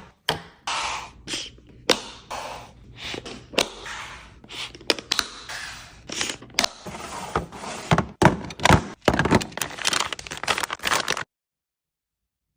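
Food packages being handled and set into a fridge: rapid knocks and clacks of containers put down, with crinkling of plastic wrappers between them. It cuts off abruptly about eleven seconds in.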